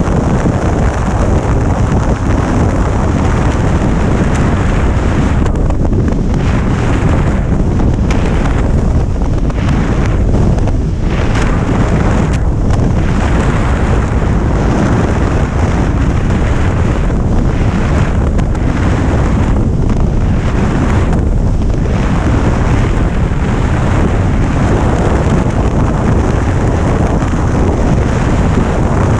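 Heavy wind rushing over the microphone of a moving motorcycle, steady and loud, easing in its upper range several times in the middle.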